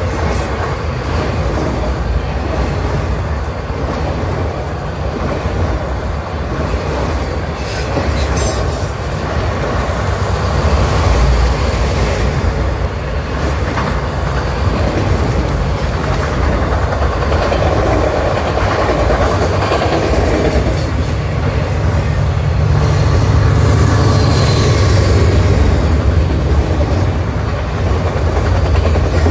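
Freight train of autorack cars rolling past: a steady low rumble of steel wheels on the rails, with scattered clicks and clatter. It gets somewhat louder in the second half.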